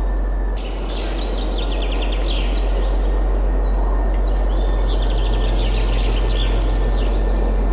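Several songbirds twittering in quick trilled chirp series, over a steady rush of wind with a strong low rumble.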